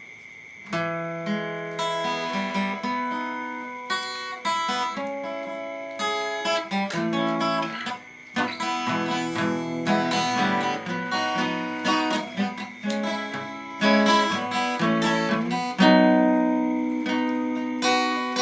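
Acoustic guitar playing a song's instrumental introduction, picked notes and strummed chords, starting about a second in.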